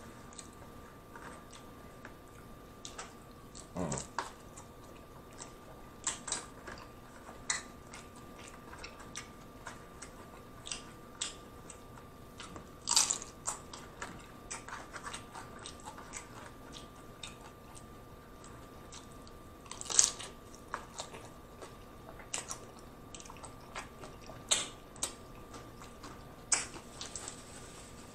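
Close-up chewing and crunching of hard-shell tacos: irregular crisp crunches and mouth sounds, the loudest about halfway through and again about two-thirds of the way in. There is a single dull knock about four seconds in.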